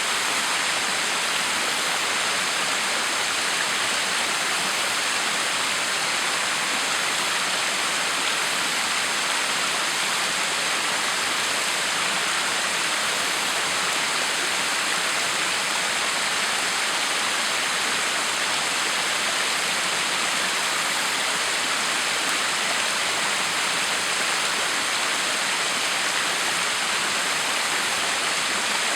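Backyard waterfall running: a steady, even hiss of falling and splashing water that does not change.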